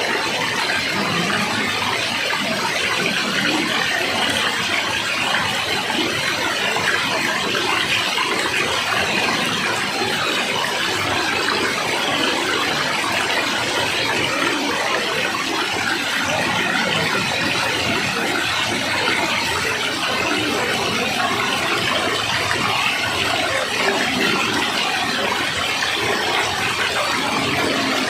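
Rushing water, such as a waterfall or fast stream, making a steady, unbroken rush with a bright hiss.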